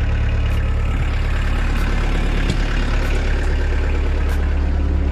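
Kubota B3000 tractor's three-cylinder diesel engine running steadily, a low, constant drone, with a faint tick about every second and a quarter.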